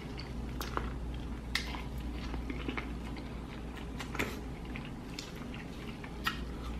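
Biting and chewing corn on the cob from a seafood boil, close to the microphone, with irregular crisp clicks as kernels are bitten off.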